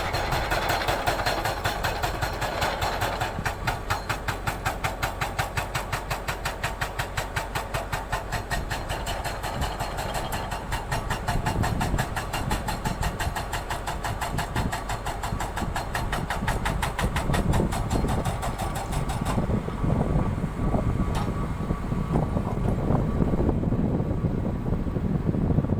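An engine running with a fast, even pulse, which gives way to a rougher, lower rumble about three quarters of the way through.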